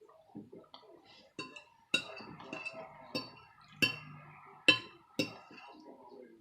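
Metal fork clinking and scraping against a dish while eating pasta: about six sharp, ringing clinks, the loudest a little past the middle.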